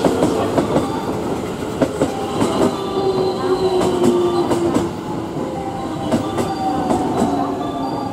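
JR West 223-series electric train pulling slowly into a station platform: wheels clacking over rail joints, with a whine that falls in pitch as it slows. The sound eases off near the end as the train comes to a stop.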